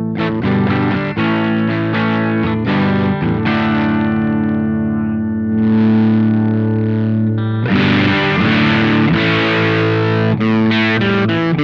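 Electric guitar played through a Velouria FX Witchcraft distortion/preamp pedal: distorted chords, one left to ring for a few seconds, then busier heavy strumming from about two-thirds in.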